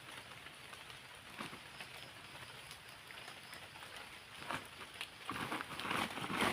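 Steady rain falling, with a few louder knocks scattered through it that bunch up and grow louder near the end.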